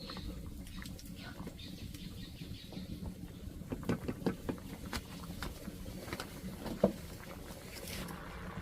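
Irregular light clicks, taps and rustling over a steady low background, with one sharp click about seven seconds in.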